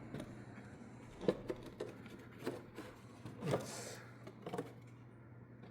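Light clicks, taps and a short scrape of hands handling the oil filter housing cap and its rubber gasket, over a steady low hum.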